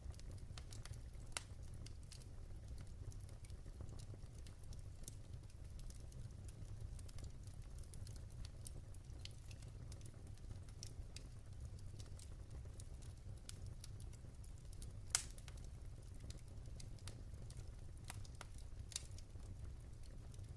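Wood fire burning in a fireplace: a low steady rumble with scattered crackles and pops, the loudest pop about 15 seconds in.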